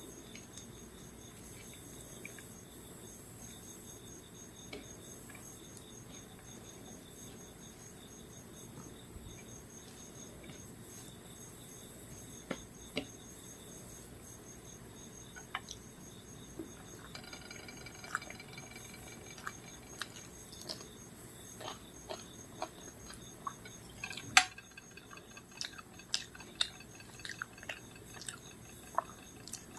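Crickets chirping steadily and faintly. From about halfway in come scattered light clicks and clinks, with one sharper clink a few seconds before the end.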